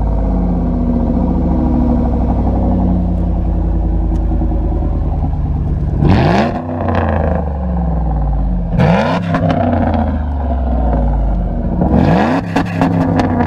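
Straight-piped 1997 Ford Taurus SHO's 3.4-litre V8 idling, blipped up in revs three times, about six, nine and twelve seconds in.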